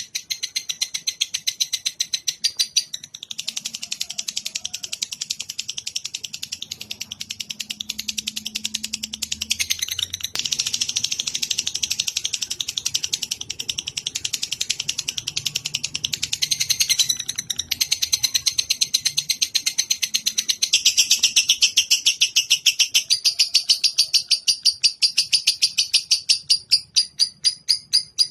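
Songbird-tutor (masteran) recording of rapid, high-pitched chirping repeated several times a second without let-up, pausing briefly about 3 seconds in and again past the middle.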